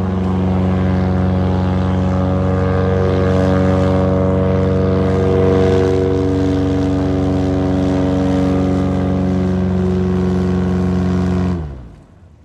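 An airboat's engine and propeller running steadily at high power. It cuts off suddenly near the end.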